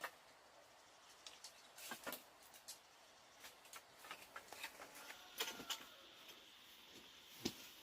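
Faint scattered clicks and taps at irregular intervals, with a brief faint chirp about five and a half seconds in and a sharper tap near the end.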